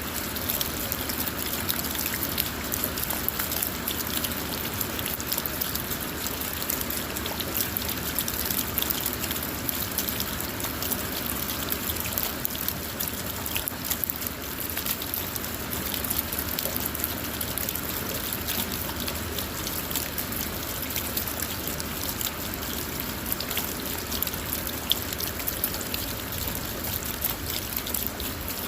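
Steady rain drumming on a car's roof and windows, heard from inside the car as a dense patter of small drop ticks over a constant hiss, with the trickle of runoff water.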